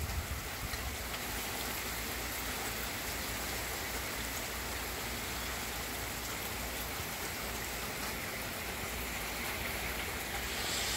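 Steady rain falling, an even hiss of drops on the lawns and the wet street.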